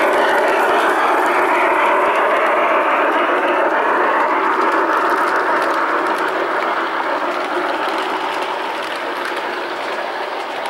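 Garden-scale model train running along its track: a steady rushing noise that slowly fades over the second half.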